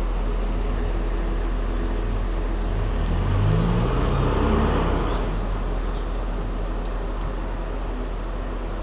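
Narrowboat engine running steadily with a deep hum. About three seconds in, a louder rumbling rush swells and then fades over a couple of seconds, and faint bird chirps sound in the background.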